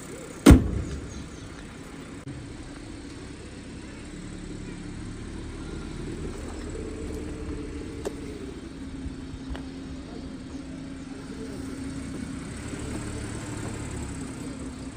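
Audi A6 V6 engine running at idle as the car creeps along at idle speed, a steady low hum that grows slightly louder partway through. A sharp click comes about half a second in.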